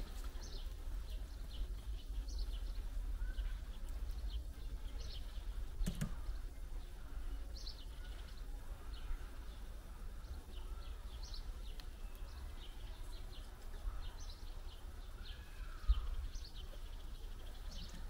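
Small garden birds chirping in short calls, many times over a steady low rumble, with a sharp click about six seconds in and a low thump near the end.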